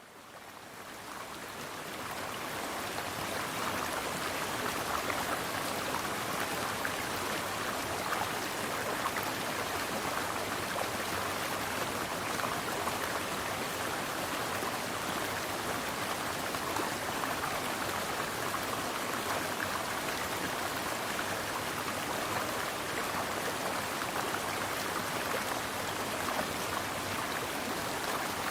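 Mountain stream water flowing with a steady rush, fading in over the first few seconds.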